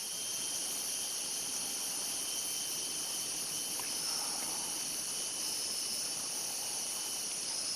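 Steady chorus of rainforest insects, a continuous high-pitched buzzing in several layered pitches.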